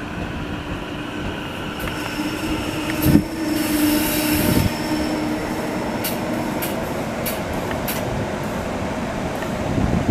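SEPTA Silverliner V electric multiple-unit train running past, with a steady hum and held tones from its motors and wheels, strongest about four seconds in. The wheels click sharply over rail joints through the second half.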